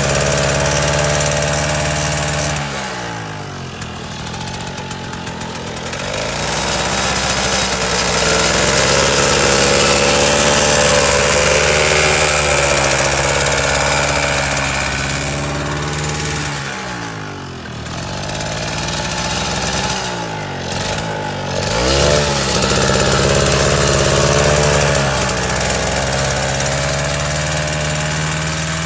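Mini tractor's engine running, its speed dropping and picking up again several times.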